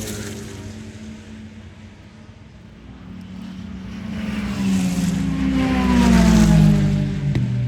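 Sports-prototype and GT race cars passing at speed: one engine fading away at the start, then another growing louder to pass about six seconds in, its pitch dropping as it goes by. A single sharp click near the end.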